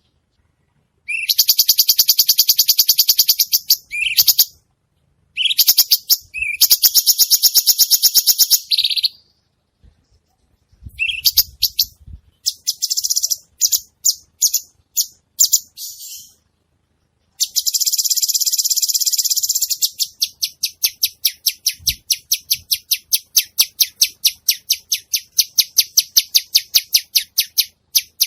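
A cucak cungkok bird singing hard in full song, in high-pitched, fast rattling phrases broken by short pauses. In the last third this gives way to a long run of sharp, evenly spaced notes, about three a second.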